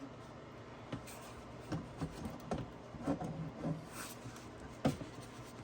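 Scattered light clicks, knocks and rubbing from an upper intake plenum being shifted about in the engine bay, with the sharpest knock near the end.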